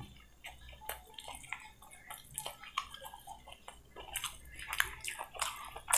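A person chewing a mouthful of chicken noodles, with soft, irregular wet clicks and smacks of the mouth, as fingers pick noodles from a steel plate.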